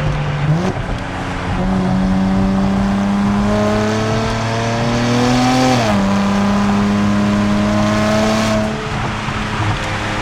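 Nissan Z Nismo's twin-turbo V6 through a Nismo Track exhaust, accelerating hard: the revs climb, drop sharply at an upshift about six seconds in, then climb again before the note falls back near the end.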